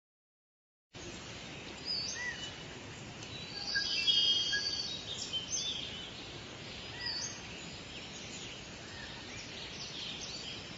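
Birds chirping and calling over a steady outdoor hiss, beginning about a second in, with a busier run of calls about four seconds in: a birdsong ambience track.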